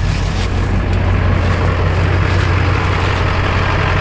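Vehicle engine running steadily, a constant low hum with no change in revs.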